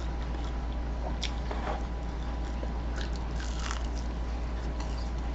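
A person chewing food close to the microphone, with scattered small crunches and mouth clicks, over a steady low hum.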